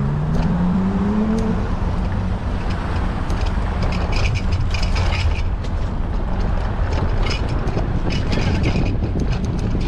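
Wind buffeting a bicycle-mounted action camera's microphone while riding, a steady rumble, with a rising tone in the first second or so and scattered sharp clicks and rattles.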